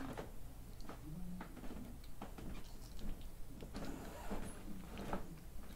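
Faint chewing and mouth noises from eating a gummy candy: scattered soft clicks over a low steady hum.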